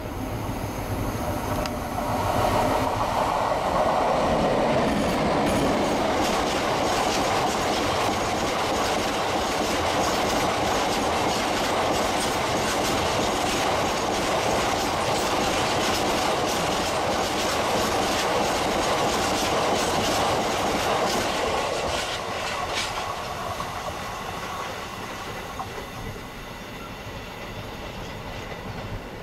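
Class 60 diesel locomotive passing close by with a long train of box wagons. The locomotive's engine is loudest a few seconds in, then the wagon wheels clatter over the track for most of the passage, fading away in the last few seconds as the train recedes.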